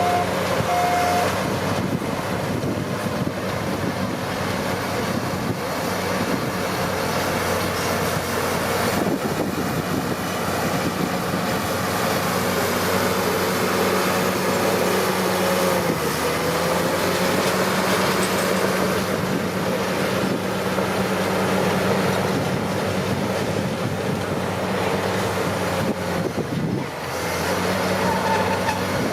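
Komatsu D41P crawler bulldozer's diesel engine running steadily under load, with the clatter of its steel tracks. The engine note dips briefly about halfway through and again near the end.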